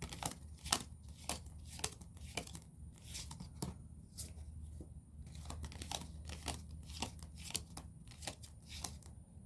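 Tarot cards being leafed through by hand, one after another: a run of short, irregular card clicks and rustles, a few each second, over a faint low hum.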